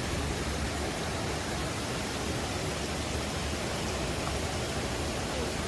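Waterfall pouring, a steady, even rushing of falling water.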